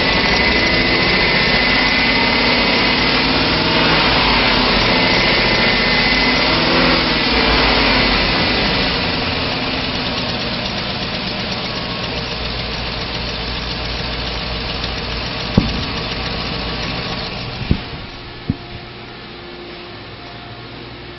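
Chevrolet 6.0-liter V8 engine running. It is revved up and back down a few seconds in, then runs steadily. A few sharp clicks come near the end, after which the engine sound falls away.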